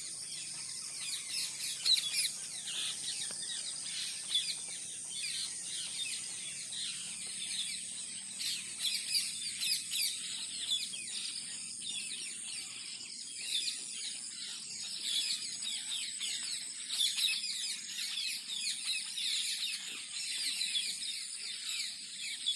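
Parrot calling: a long run of short, quick chirps, with a steady high-pitched tone underneath.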